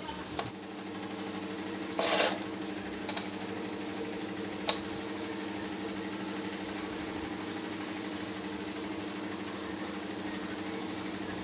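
Steady hum of a small motor running. A short, loud hissing burst comes about two seconds in, and a sharp click a few seconds later.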